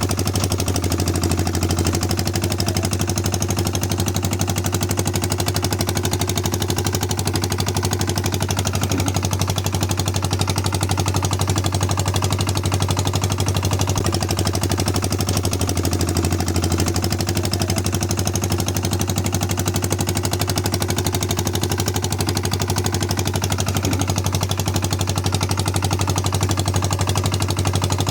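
Small engine of a mini DIY tractor running steadily, a rapid, even chugging.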